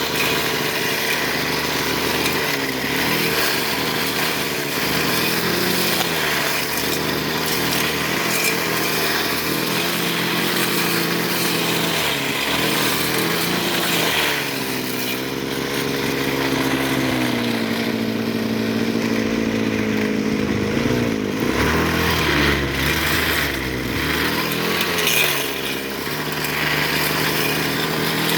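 Petrol brush cutter fitted with a metal blade, cutting tall weeds, its engine revving up and down with the load. Past the middle it holds one steady high pitch for several seconds, then drops back and keeps rising and falling.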